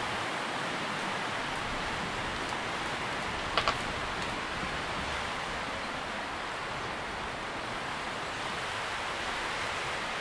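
Tree leaves rustling steadily in the wind, an even hiss with no gusts or pauses. About three and a half seconds in comes one short, sharp double tick that stands out above the rustle.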